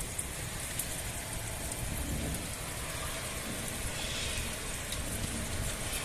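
Heavy rain pouring down steadily, an even hiss with occasional drop ticks.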